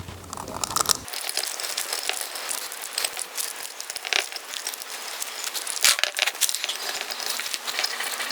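High-temperature masking tape being trimmed with a sharp blade around a brake caliper: crinkling and scraping of the tape with many small clicks.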